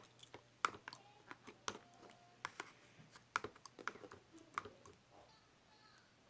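A run of quick, irregular light clicks and taps, like typing, that stops about five seconds in.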